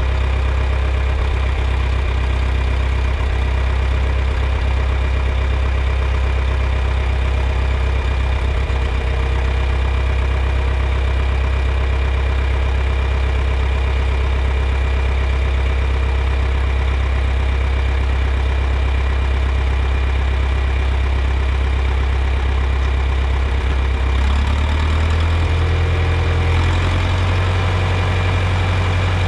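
John Deere 3010 propane tractor engine running steadily at a low idle. Near the end its speed rises in two steps.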